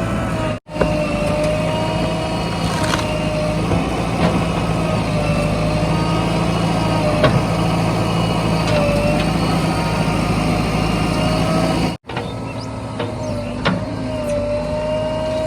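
Diesel engines of a backhoe loader and tractors running steadily, with a wavering whine over the engine note. The sound drops out briefly twice: about half a second in and again near the end.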